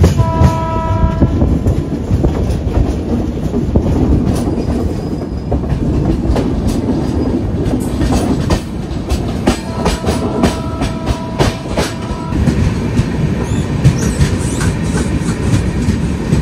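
Passenger train running, heard from an open coach door: a steady rumble of wheels on rail with sharp clicks over the rail joints. A locomotive air horn sounds briefly near the start and again for about two seconds some ten seconds in.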